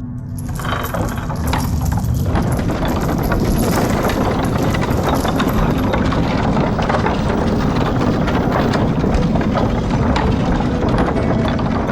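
A loud, dense clattering rumble that builds over the first two seconds and then runs on steadily.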